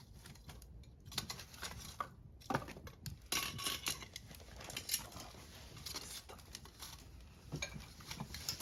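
Irregular crackles, rustles and light knocks at a wood campfire as it burns and is fed with wood and pine cones.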